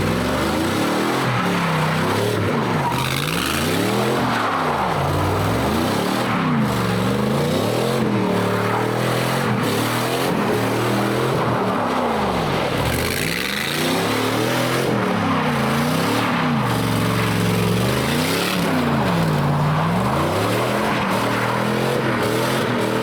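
Truck engine revving up and falling back over and over, roughly every couple of seconds, with tyre noise, as the truck is drifted on snowy streets.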